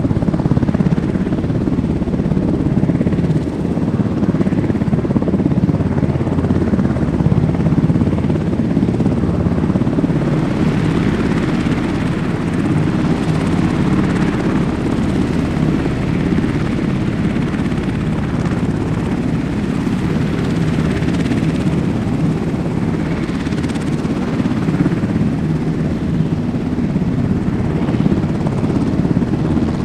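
A Sikorsky UH-60 Black Hawk, a four-bladed twin-engine helicopter, running with a steady, loud blend of rotor beat and turbine noise. There is a slight swell in the higher hiss partway through.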